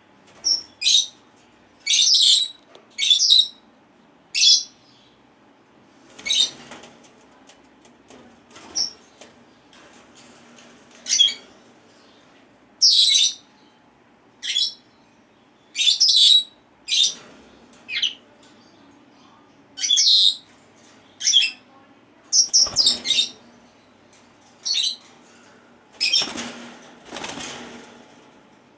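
Senegal parrots giving short, high-pitched calls over and over, roughly one every second, some in quick pairs and triplets, with a longer noisy flurry near the end.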